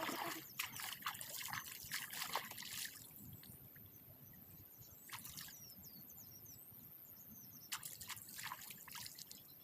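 Water splashing and dripping as a fishing net is handled in the water. The splashing comes in irregular spells, most in the first three seconds, with a short spell a little after five seconds and another near the end.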